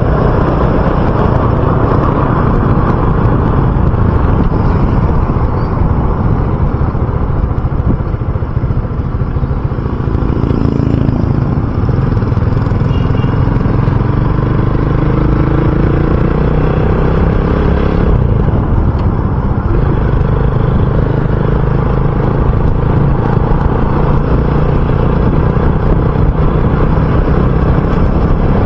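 RUSI Classic 250 motorcycle engine running steadily while riding, with road and wind noise, easing off briefly about ten seconds in.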